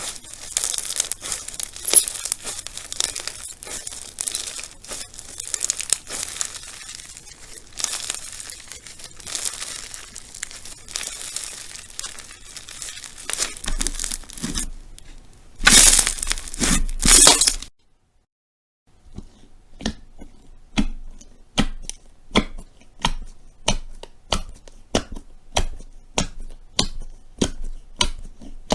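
Crunchy slime being squeezed and worked by hand, with dense crackling and popping. After a short silence it gives way to a run of sharp pops at about two a second.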